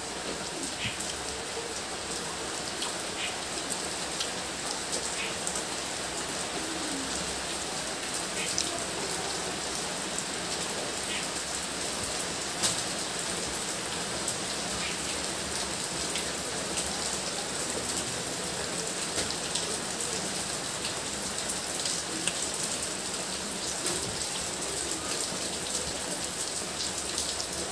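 Steady rain falling, an even, constant hiss, with a few faint ticks over it.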